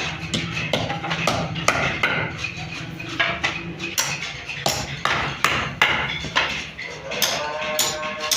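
Irregular sharp knocks and taps, about two or three a second, over a steady low hum of workshop work. A musical tone comes in about seven seconds in.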